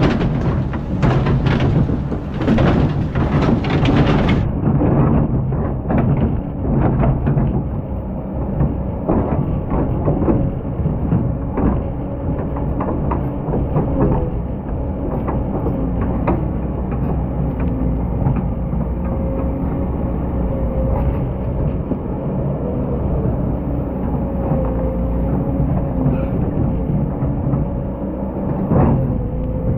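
Excavator's diesel engine running steadily under load, with a held tone that wavers slightly in pitch. Dense knocks and rattles fill the first several seconds, then thin out.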